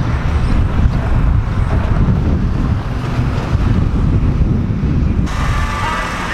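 Lifted pickup truck driving, a steady low rumble of engine and road noise with wind buffeting the microphone. Near the end it cuts abruptly to a different, pitched sound.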